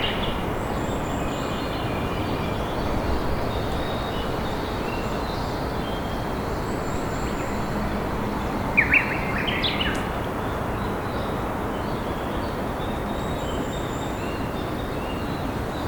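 River water flowing steadily, with wild birds calling over it: faint scattered high chirps, and a brighter burst of quick calls at the start and again about nine seconds in.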